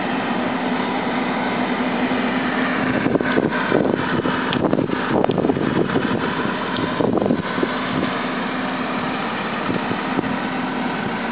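Steady mechanical hum and rumble, with a cluster of knocks and rattles in the middle.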